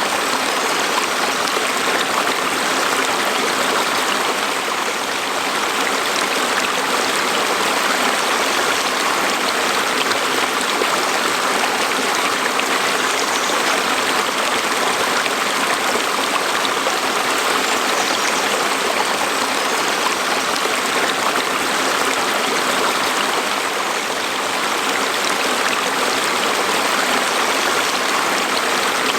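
Stream water flowing and burbling over rocks, a steady, even rush of water.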